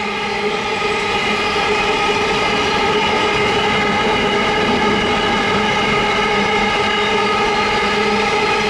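Freight train's container wagons rolling past on steel wheels and rail, a steady loud running noise with a steady pitched whine over it.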